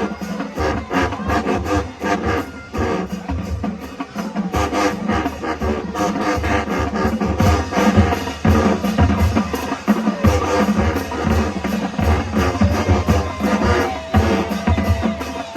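High school marching band playing, with the drumline's bass drums and snares driving a steady beat under sustained pitched instrument lines.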